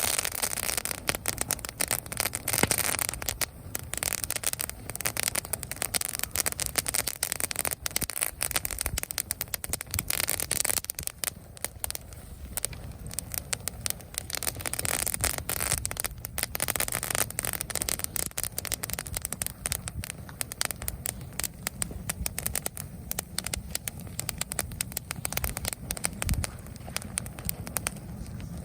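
Campfire burning dry leaves still on dead branches, crackling with dense, irregular sharp pops and snaps, many each second, over a low steady rumble of the flames.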